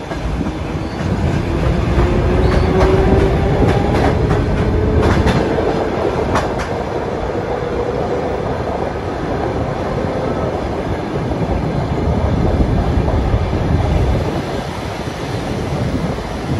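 Train moving through a station: a steady heavy rumble with clattering over the rails, a tone that rises slowly in pitch over the first half, and a few sharp clicks near the middle.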